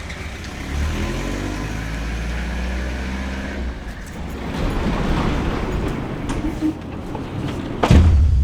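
A motor vehicle's engine running, its pitch rising about a second in as it speeds up, then a steadier rumble. A sharp knock near the end.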